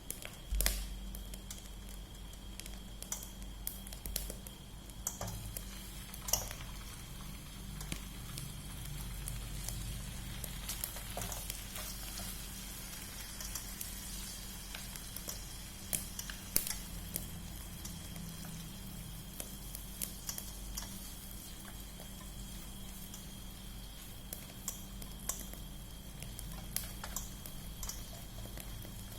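Food sizzling steadily as it fries in oil, with scattered sharp clicks and knocks.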